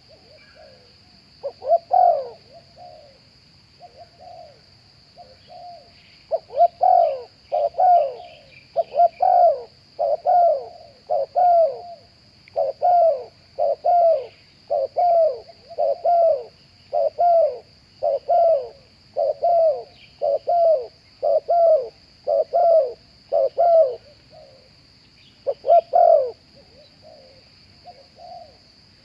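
Spotted doves cooing: a long run of loud, repeated coo phrases, about one a second, with a few softer calls at the start and end. Beneath them runs a steady high-pitched drone.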